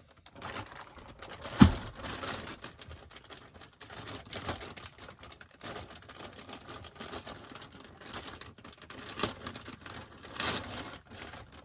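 Plastic packaging of hash brown patties crinkling and rustling as it is handled, with irregular clicks and a single sharp knock about two seconds in.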